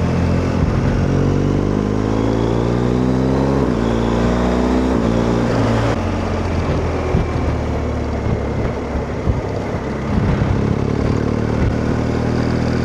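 BMW R1250GS boxer-twin motorcycle accelerating through an Akrapovic exhaust, its engine note rising for about four seconds, then running on more steadily with a few sharp crackles in the second half.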